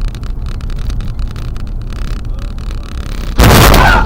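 Steady low rumble of a vehicle running, then near the end a sudden, very loud crash lasting under a second.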